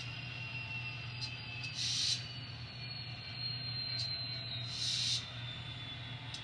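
N scale model locomotive running slowly as it shoves a cut of cars, with a steady hum and a thin high whine that slides slowly lower. Two short hisses come about two and five seconds in.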